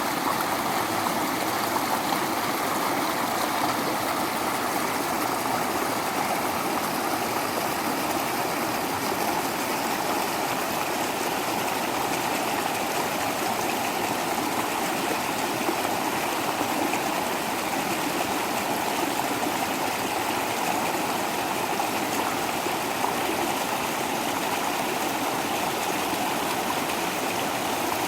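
Small waterfall splashing and running: a steady rush of water.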